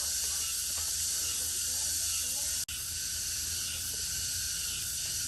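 A steady, high hiss that drops out for an instant about two and a half seconds in, with faint voices underneath.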